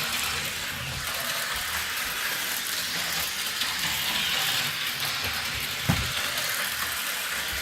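Lionel O27 toy locomotive running on its track: a steady whirring of the electric motor and wheels, with a single click about six seconds in.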